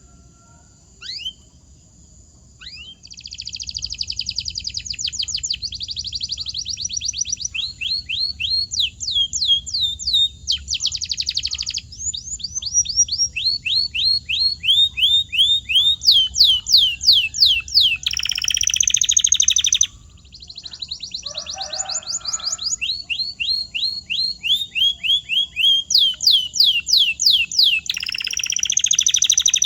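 Domestic canary singing a long rolling song. A few seconds in it begins runs of rapidly repeated notes and downward-sliding whistles, switching to a new phrase every second or two, with a brief pause about two-thirds of the way through.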